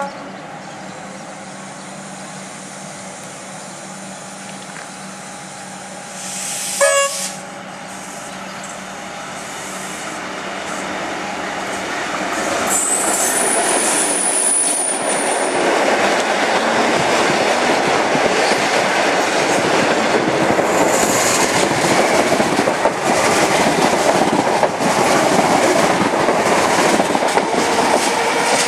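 V/Line N class diesel locomotive and its passenger train coming through the station: a short horn toot about seven seconds in, then the sound swells into a loud, steady rumble and wheel clatter as the train passes, with a brief high-pitched wheel squeal partway through.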